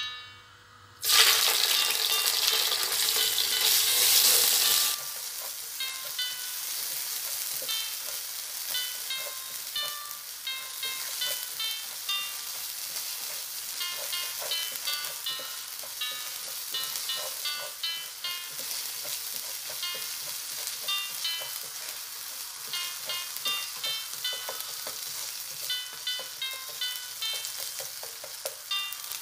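Hot oil in a nonstick frying pan sizzles loudly about a second in as chopped food goes in, easing after about four seconds into steady frying with a spatula scraping and stirring. Light background music with short plucked notes plays throughout.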